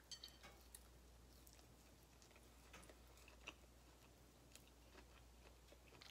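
Faint chewing of a mouthful of beef, with a few soft scattered clicks.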